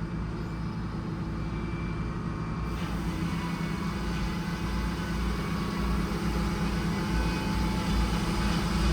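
The bus engine that powers the sawmill runs steadily with a low, even hum. From about three seconds in, a harsher, noisier layer joins it and the sound grows slowly louder.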